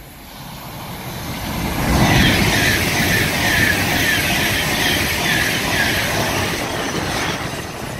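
Virgin Class 390 Pendolino electric express running through a station at speed. The rumble builds over the first two seconds into a loud rush of wheels on rail with a repeating higher-pitched clatter as the carriages pass, then eases off near the end.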